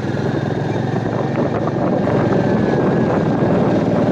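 Royal Enfield Meteor 350's single-cylinder engine running as the motorcycle is ridden slowly, mixed with wind and road noise at the rider's microphone.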